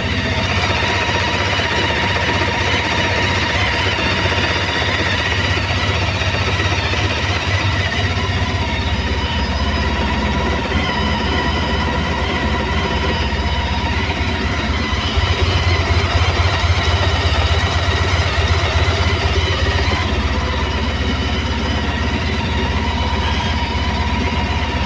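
Honda ST1300 motorcycle's V4 engine idling steadily in winter cold, a little louder from about fifteen seconds in.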